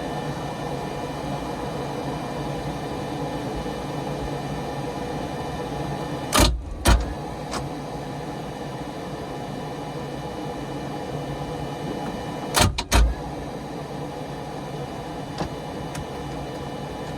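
Two pairs of sharp clicks about six seconds apart over a steady hum, with no cranking after them: a 4.3 MerCruiser's starter clicking without turning the engine over, which the owner suspects is heat soak after a starter swap.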